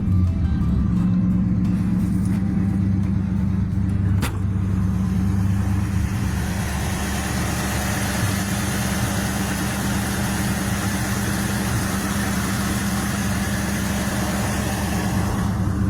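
Ford 351 Windsor V8 in a 1971 Ranchero running with a steady low rumble. There is a sharp click about four seconds in, and a hiss builds up about six seconds in.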